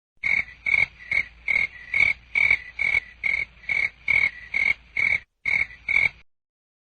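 An animal calling in a quick, even series of about fifteen short, high calls, a little over two a second, which stop abruptly.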